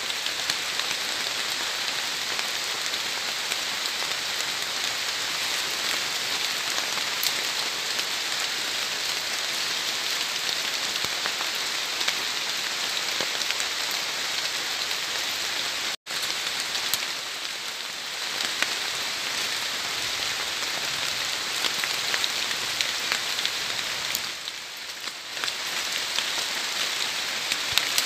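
Steady rain falling on forest foliage, a dense even hiss scattered with tiny drop ticks, cutting out for an instant about halfway through.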